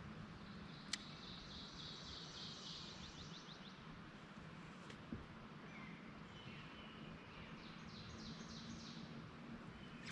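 Faint songbird trills: two runs of quick repeated high notes, one early and one near the end, over quiet pond ambience with a single light click about a second in.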